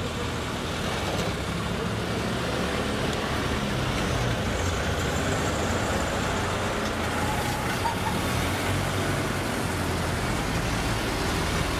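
Engine of a vintage open touring car running with a low, steady note as the car drives slowly past.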